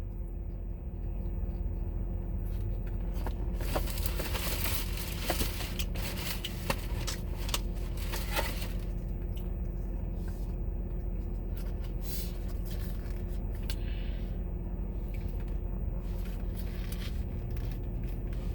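Scattered rustling, crinkling and clicks of food packaging being handled, over a steady low hum.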